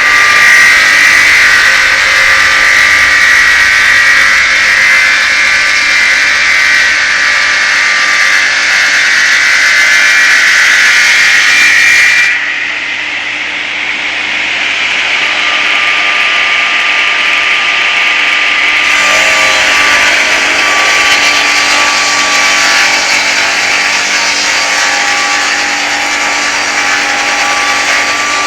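Homemade circular-blade sawmill driven by an 11 kW motor, its blade sawing through oak with a loud, steady sawing noise. The noise drops suddenly about 12 seconds in, then builds up again and runs on steadily.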